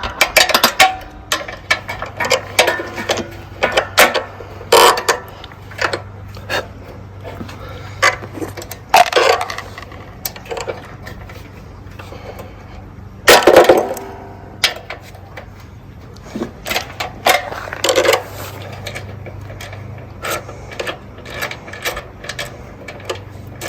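Hand tools clicking and clinking on metal while nuts holding a Coleman CT200U minibike's gas tank are taken off: scattered irregular knocks and taps, with a louder clatter about 13 seconds in, over a low steady hum.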